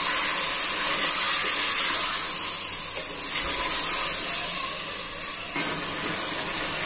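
Chicken, yogurt and chopped tomato sizzling steadily in hot oil in an aluminium cooking pot while being stirred with a wooden spoon, as the masala is fried down (bhuna) for chicken karahi.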